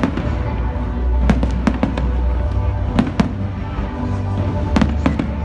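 Fireworks bursting overhead: a string of sharp bangs, several coming in quick pairs, over music with a steady low bass.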